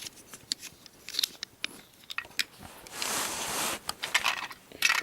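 Toy train box van being handled: small plastic clicks and taps, with a brief rustle or scrape about three seconds in.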